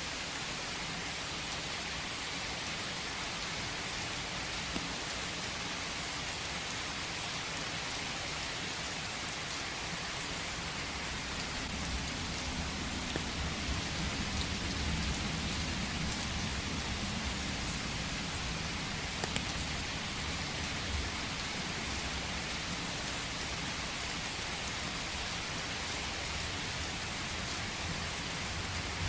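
Steady rain falling, an even hiss with faint scattered drop ticks. A low rumble swells up through the middle and fades again.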